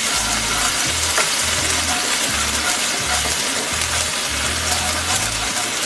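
Garlic and ginger paste sizzling steadily in hot oil in a non-stick frying pan while being stirred with a wooden spatula.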